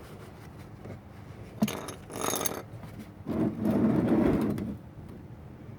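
Handling noises: a sharp click, a short scrape, then a louder rustling that lasts about a second and a half.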